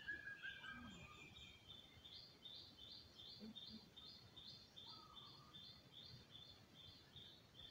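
Faint bird song: a high two-part chirp repeated about three times a second, starting about two seconds in.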